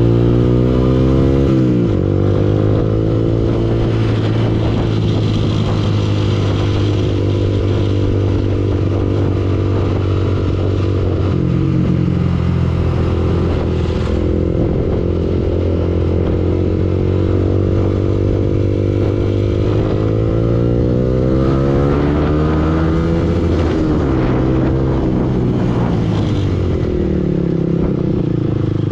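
Yamaha R15 V2 motorcycle's single-cylinder four-stroke engine running while riding. Its pitch falls in the first two seconds, holds steady for a long stretch, then rises and falls with the throttle a few times in the second half.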